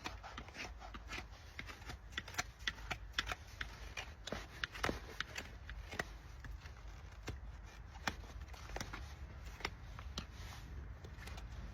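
A farrier's hand tools working on a shire horse's hoof: quick, irregular cutting and scraping snicks, a few a second, as the hoof wall and sole are trimmed.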